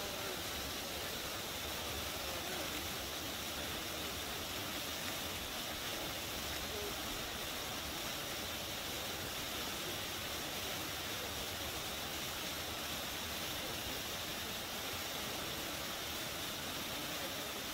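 River water rushing and gushing in a steady, unbroken hiss.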